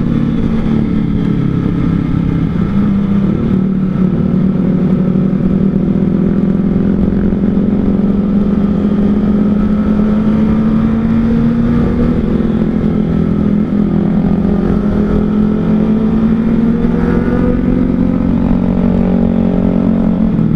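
Kawasaki ZX-25R's 250 cc inline-four with an R9 Zeta aftermarket exhaust, running steadily under way. Its pitch rises and falls gently as the throttle changes.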